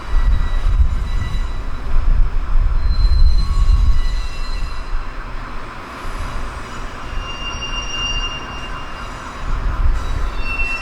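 Train moving over the rails: a low rumble with thin, high wheel squeals that come and go at different pitches. It is loudest in the first four seconds, then eases off.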